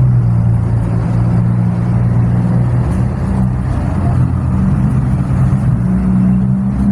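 Dump truck's diesel engine idling steadily, a constant low hum.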